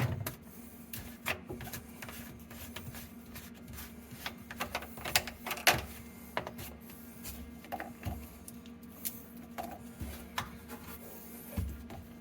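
Irregular clicks and light knocks of plastic sink trap fittings being handled and worked with pliers, over a faint steady hum.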